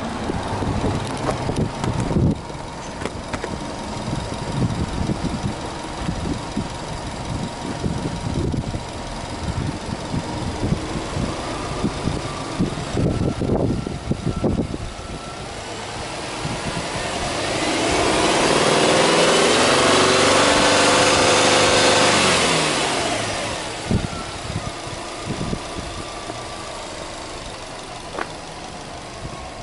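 Subaru Legacy Touring Wagon 2.0GT's turbocharged 2.0-litre flat-four engine idling, heard at the open engine bay. About halfway through it is revved: the pitch climbs, holds high for a few seconds, then drops back to idle.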